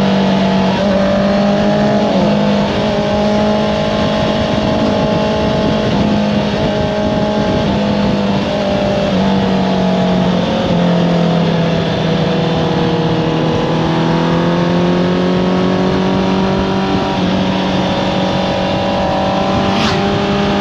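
Honda CBR650R's inline-four running through an Akrapovič exhaust while riding, revs dipping and rising again several times as the throttle is rolled off and back on. A steady rush of wind noise runs underneath.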